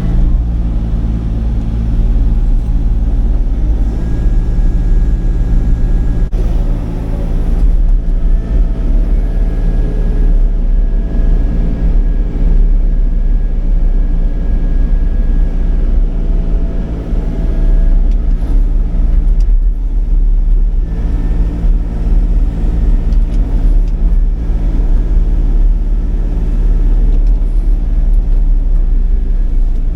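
Sany 35 mini excavator's diesel engine running steadily under load as the machine works, with a low, even drone.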